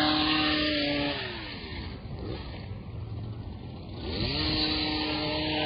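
Small gas engine of a handheld landscaping power tool revving high, dropping back to idle about a second in, then revving back up about four seconds in and holding.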